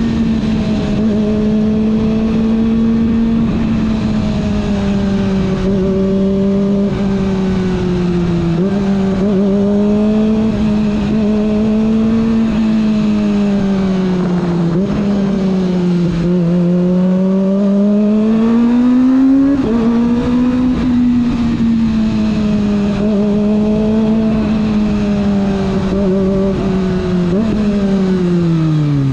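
Kawasaki ZX25R's 249 cc inline-four engine running under way, its pitch rising and falling with the throttle and jumping at several gear changes. Near the end the revs drop steeply as the bike slows.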